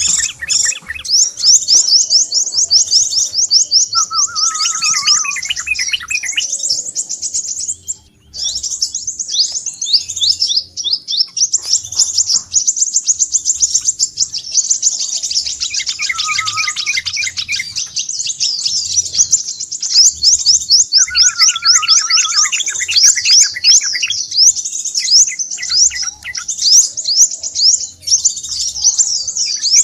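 Crimson sunbird calls played as a bird-lure recording: a dense, unbroken stream of rapid, high, sharp twittering chips, with a lower trilling phrase about four seconds in, again past the middle and again some seconds later.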